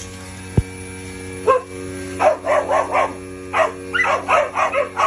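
A dog barking in quick runs of short, high barks, about a dozen in all, starting about a second and a half in. A single sharp thump comes just before, about half a second in.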